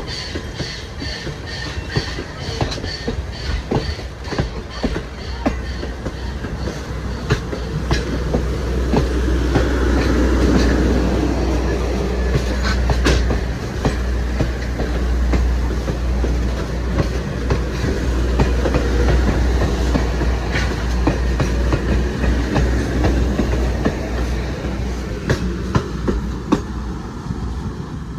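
Train passing with a steady low rumble, its wheels clicking rhythmically over rail joints. It grows louder toward the middle and eases off near the end.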